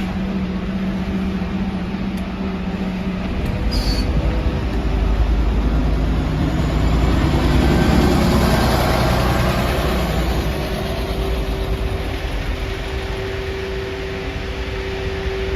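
Scania Omnidekka double-decker bus on the move, heard from inside the cabin: a steady engine drone with road and rattle noise that swells to its loudest about halfway through, then eases off.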